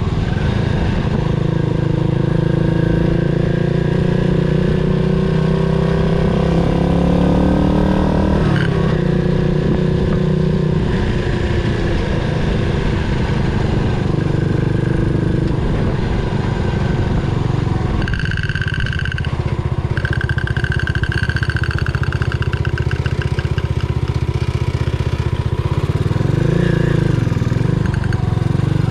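Yamaha SR400's air-cooled single-cylinder engine running on the road, its pitch rising as it accelerates through the gears. A high steady whine sounds briefly about two-thirds of the way through.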